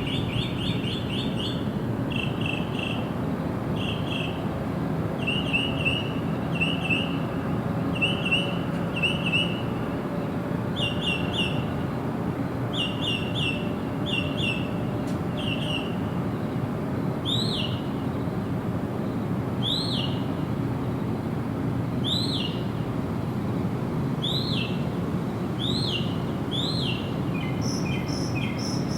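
Bird calls: short chirps in quick clusters of two to four, then, from a little past halfway, single sharply curved notes about every two seconds, over a steady low background hiss.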